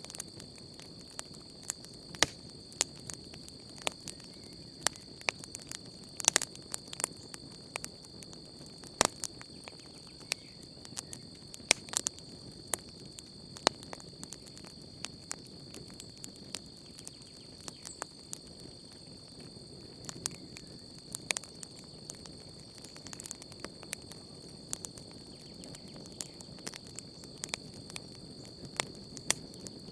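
Wood campfire crackling, with frequent irregular sharp pops and snaps over a low steady hiss of burning. Behind it, a steady high-pitched drone of night insects such as crickets.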